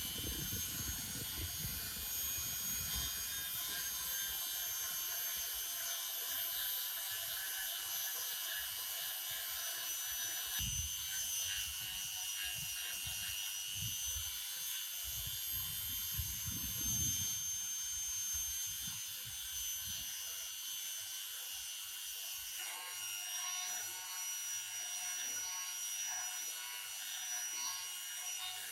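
A small high-speed power tool motor, just spun up, running steadily with a high whine, with irregular rubbing and grinding noises as it works against the piece. Its pitch drops slightly about 22 seconds in.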